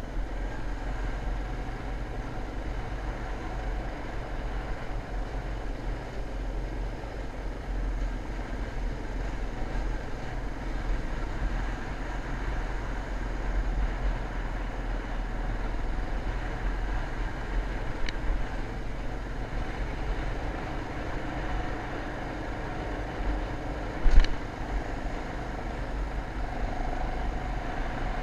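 Motocross motorcycle running as it is ridden, a steady noisy engine sound over a heavy low rumble, with one sharp knock about 24 seconds in.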